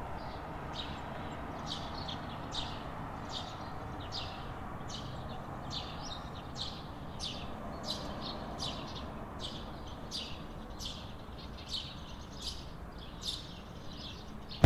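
Small birds chirping: short, high chirps repeat about twice a second over a steady background hiss of outdoor ambience.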